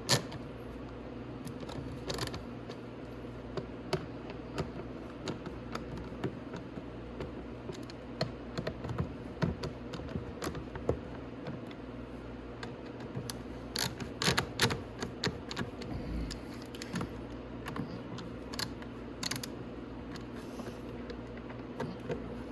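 Hand ratchet wrench clicking irregularly as the exhaust mounting bolts on an ATV are tightened, with scattered metallic ticks and taps over a steady low hum.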